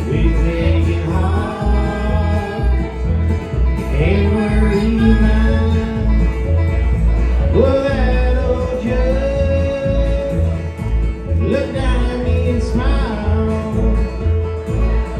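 Live acoustic bluegrass-country band playing: acoustic guitar, banjo and bass, with a steady pulsing bass line under sustained, sliding melody notes.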